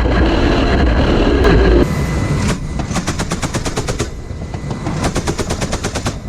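A heavy rumble for about the first two seconds, then rapid bursts of automatic gunfire, several shots a second.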